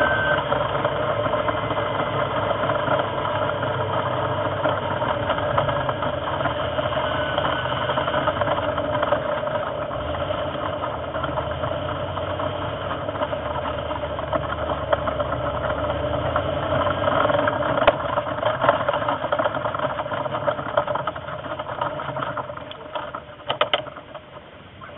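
Morgan sports car engine running at low pit-lane speed, a steady drone that fades away over the last few seconds. A few sharp clicks come near the end.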